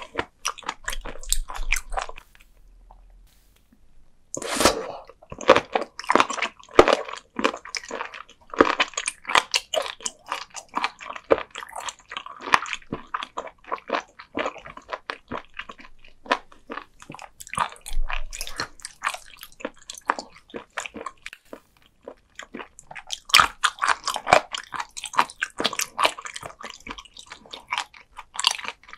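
Someone chewing raw sea cucumber close to the microphone: the hard flesh gives a crunchy crackle of rapid clicks. A couple of seconds in, the chewing pauses briefly, then resumes with a loud fresh bite. Another loud run of crunching comes near the end.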